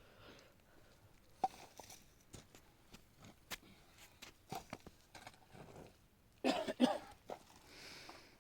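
A person coughing, two quick coughs about six and a half seconds in, amid scattered light knocks and clicks.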